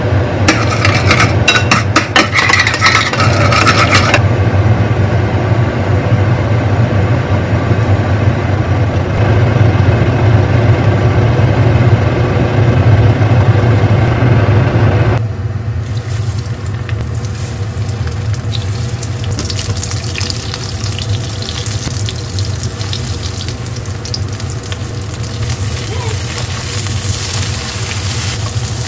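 Egg-and-flour-coated pollack fillets frying in oil in a pan, a steady sizzle from about halfway through. Before that there is a steady low hum, with a burst of rapid clicking in the first few seconds.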